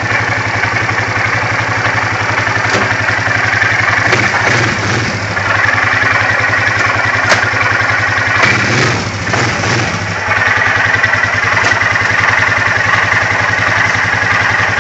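2008 Polaris Sportsman 400 HO ATV engine idling with a loud knocking rattle. The rattle eases off for a few seconds in the middle, then starts again. The racket shows mainly at idle and stops when the engine is given RPM.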